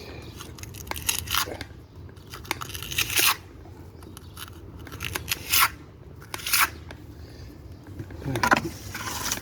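Several short, gritty scraping strokes of a mason's trowel working mortar into brick joints, separated by pauses.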